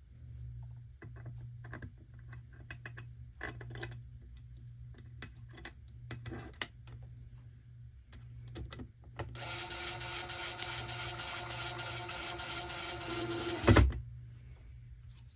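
Scattered light clicks and taps of plastic trim pieces being handled, then a cordless screw gun runs for about four seconds with a rapid, steady whir and stops with a loud thump.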